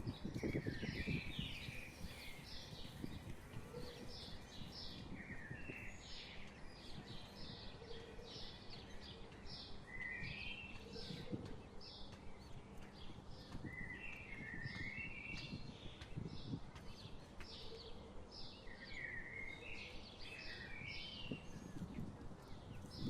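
Small birds calling throughout: short high chirps, often in quick pairs, with lower warbled phrases every couple of seconds, over a low outdoor background rumble.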